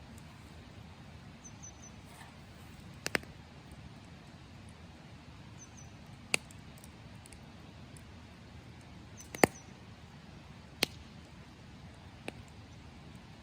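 Campfire wood giving sharp, irregular pops and cracks, a few seconds apart, over a low steady hiss. Faint high bird chirps come in quick little groups of two or three notes.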